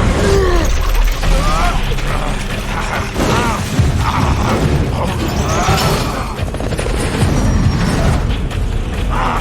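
Layered action-film sound effects of a helicopter crash: loud crashes and booms over a low rumble, with metal grinding and screeching that rises and falls.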